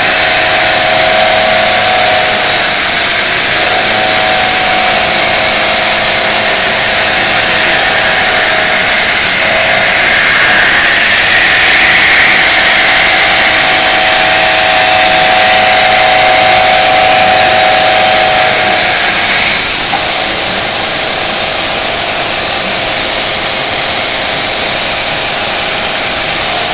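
CNC milling machine cutting a heat-exchanger body: a loud, steady machining noise with a cutting tone that shifts slightly in pitch and breaks off briefly a few times as the cutter moves through the part.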